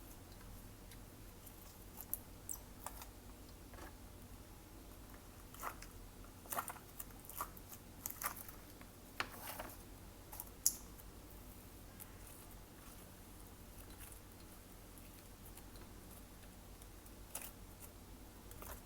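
Slime being worked by hand: faint, scattered sticky clicks and small pops, clustered in the first half and again once near the end, over a low steady hum.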